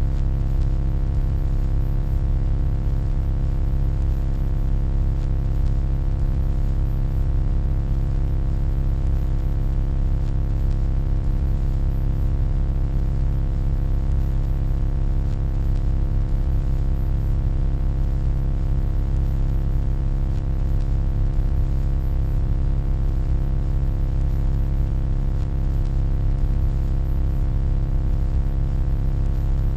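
Steady electronic hum: a deep low drone with a stack of faint steady overtones above it and a thin high-pitched whine, unchanging throughout.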